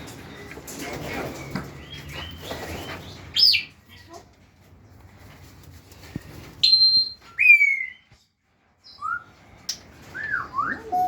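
African grey parrots giving loud whistled calls: separate notes that slide up or down in pitch, one dropping sharply, after a few seconds of rustling and softer chatter. The sound cuts out briefly partway through.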